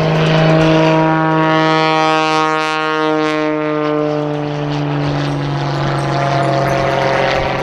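Oracle Challenger III aerobatic biplane's propeller engine running loud as it flies past, its pitch falling as it goes by.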